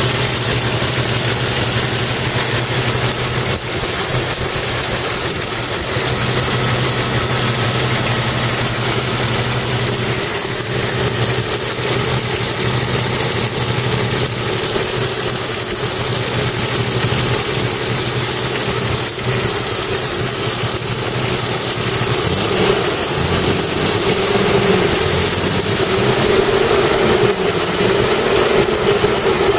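Jeep Cherokee XJ's 4.0-litre straight-six idling steadily, heard close up in the engine bay, loud and a bit tappety: a sound the owner suspects may be a leaking exhaust manifold.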